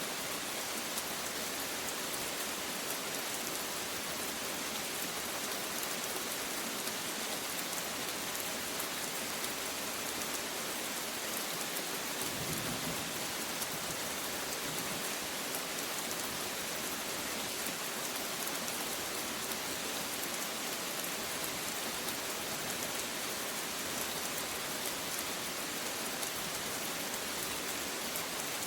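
Steady, even rain falling, a constant dense hiss of drops on surfaces.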